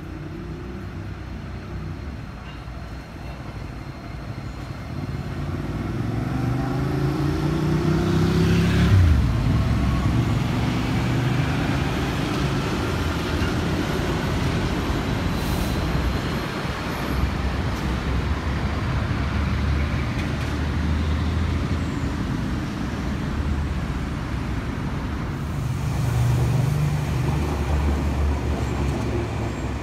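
Two Keio Inokashira Line electric trains passing each other on the tracks below: a rising whine swells to a peak about nine seconds in, followed by a steady low rumble of wheels on rails as the cars run past, swelling again near the end.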